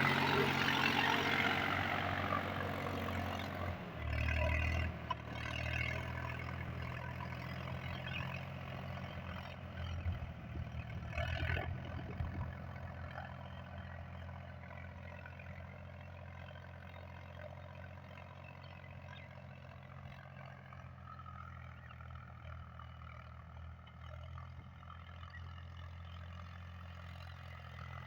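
Tractor's diesel engine running steadily, loud at first and growing gradually fainter, as if moving away.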